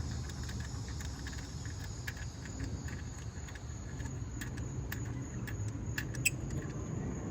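Insects chirring in a steady high band, over a low hum, with a scatter of light clicks that grow more frequent in the second half.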